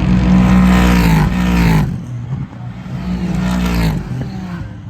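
Two IMSA race cars passing at speed, one after the other. The first is loud in the first two seconds, its engine note dropping steeply as it goes by. The second follows, its note rising, then dropping about four seconds in before fading away.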